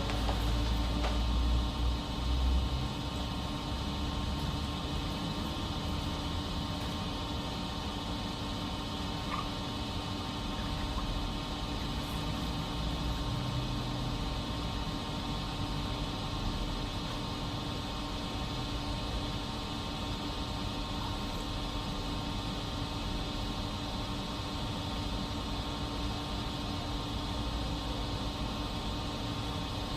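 Steady mechanical hum with one constant tone over a low rumble, the rumble a little louder for the first two or three seconds.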